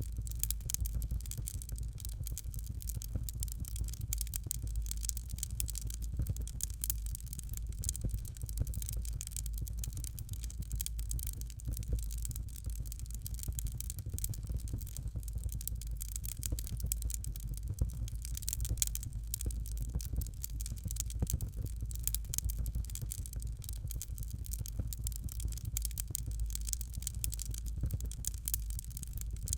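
Fire crackling steadily in a fireplace, a dense run of small irregular pops and snaps over a low, even rumble.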